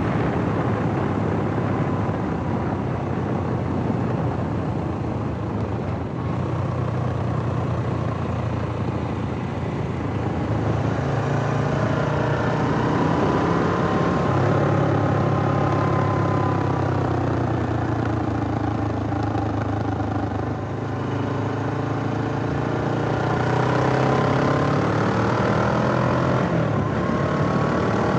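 Suzuki GS500E's air-cooled parallel-twin engine running continuously, its revs rising and falling slowly several times, over a steady rushing noise.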